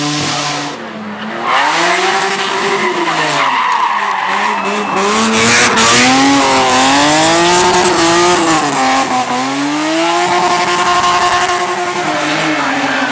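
BMW 3 Series engine revving up and down over and over as the car drifts, with the tyres squealing underneath. The engine drops back briefly about a second in, then climbs again into repeated rising and falling revs.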